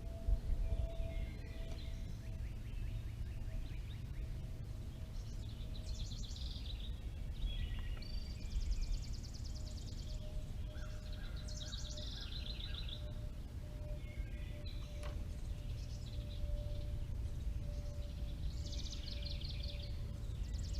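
Several songbirds singing rapid trilled songs again and again, over a steady low outdoor rumble, with a faint steady hum and a couple of light clicks.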